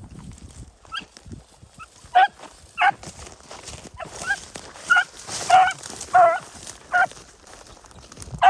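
Dog barking: a string of about nine short, sharp barks, roughly one every half second to second.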